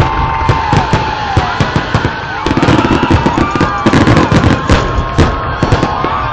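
A dense fireworks barrage: many sharp bangs and crackles in quick succession, with several whistling fireworks whose pitch bends up and down.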